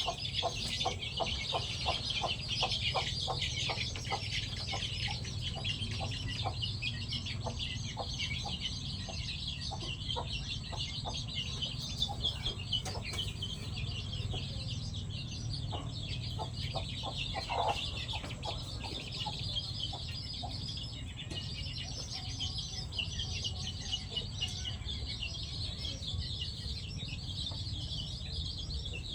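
Free-range village chickens clucking as they feed, with many short clucks in quick succession, busiest in the first several seconds. A steady high chirring runs underneath.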